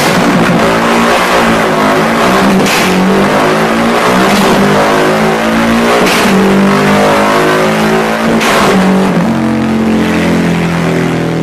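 A modified Yamaha Y15ZR's 150cc single-cylinder engine revved repeatedly, its pitch stepping up and down, with sharp loud bursts every second or two.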